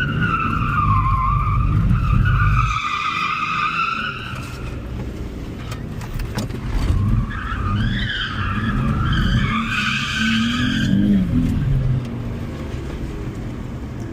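A car drifting in two slides: the tyres squeal for about four seconds, then again for about three seconds midway, over the engine running hard. Heard from inside the car.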